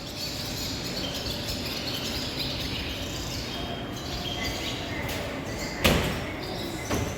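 Barn swallows twittering in quick, high chirps over a steady background noise. A sharp knock comes near the end, with a smaller one just after.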